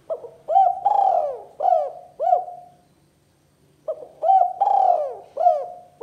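Spotted dove (tekukur) cooing in its "kuk 2" call: two loud phrases of about five arched coos each, with a pause of about a second between them.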